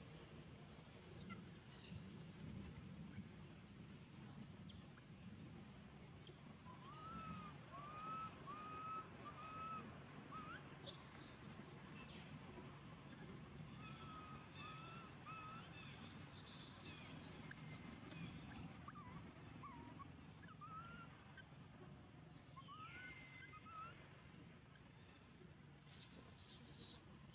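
Faint outdoor ambience with birds calling: several short, arched, whistled notes repeated in runs through the middle, and a few brief high squeaks.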